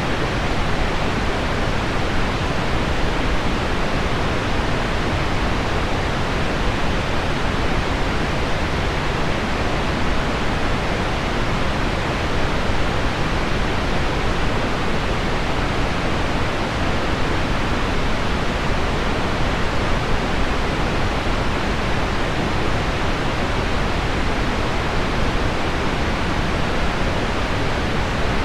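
Heavy rain on window glass blended with deep pink noise, a steady, even hiss with no separate drops or changes standing out.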